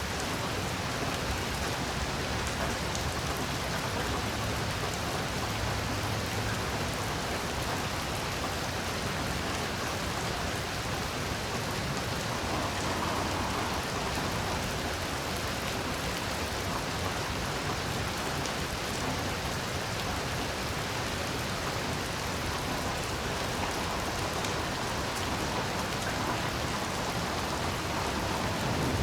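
Heavy rain falling steadily: a dense, even hiss of drops with no let-up. In the last second a low rumble begins to swell.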